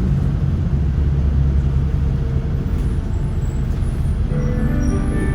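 King Long city bus engine running with a steady low rumble. About four seconds in, an electronic chime of held tones comes in over it, the lead-in to the bus's automatic stop announcement.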